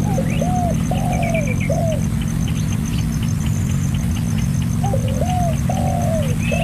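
A dove cooing: two phrases of about four short notes, one at the start and one near the end. Faint higher chirps and a run of quick ticks fall between the phrases, over a steady low rumble.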